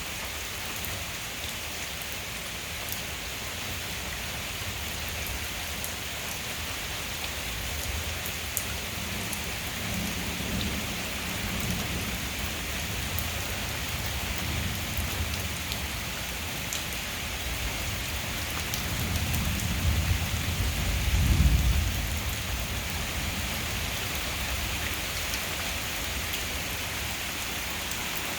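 Heavy rain falling steadily in a severe thunderstorm, with a long low rumble of thunder that builds about a third of the way in and is loudest about three quarters of the way through.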